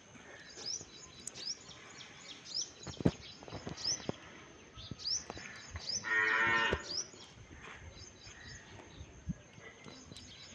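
A cow moos once, a short call about six seconds in, over small birds chirping again and again, with a few sharp knocks.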